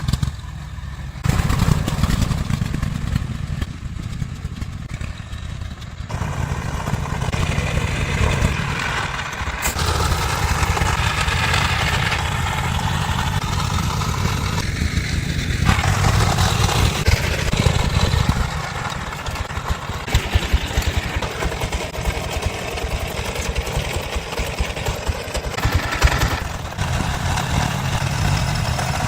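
Truck engine running, its level and pitch rising and falling as it works. There is a sudden jump in loudness about a second in.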